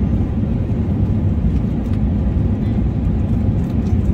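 Steady low rumble of an Emirates Airbus A380 heard from inside the cabin: engine and airflow noise with no sudden changes.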